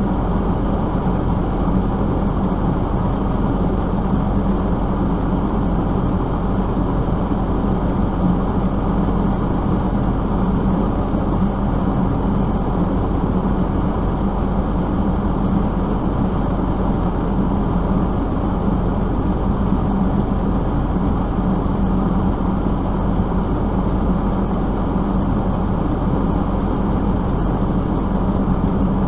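Steady vehicle engine drone with a constant low hum and road noise, unchanging in level.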